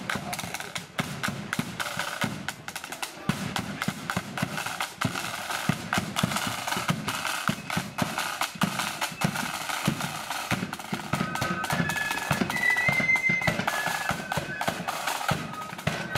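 A marching flute band's drums playing: snare drums rolling and rattling over a bass drum beat. About eleven seconds in, the flutes come in with a melody of high held notes.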